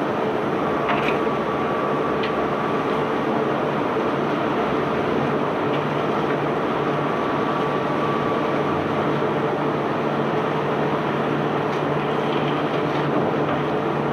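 Steady drone of a self-unloading cargo ship's engine and unloading machinery running, with a faint high whine that comes and goes and a few light clicks.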